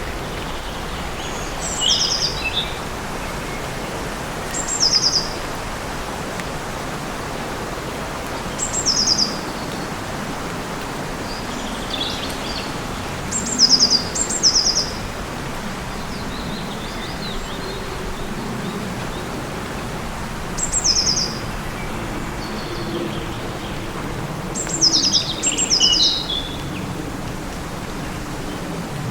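A songbird repeating a short, high, stuttering phrase every three to four seconds, sometimes twice in quick succession, over a steady rushing background noise.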